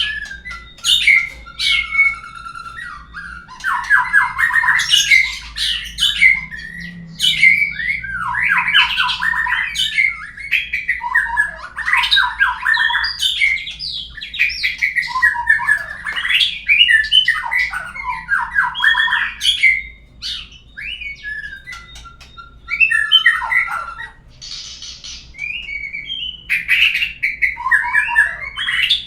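White-rumped shama (murai batu) singing, as on a lure recording played to set another shama singing. Loud, varied phrases of fast repeated notes, whistles and short harsh notes follow one another with only brief pauses.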